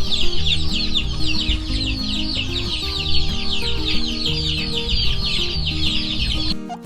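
Chickens, with a dense, unbroken chorus of high peeping many times a second, over background music with a slow melody. Both cut off abruptly near the end.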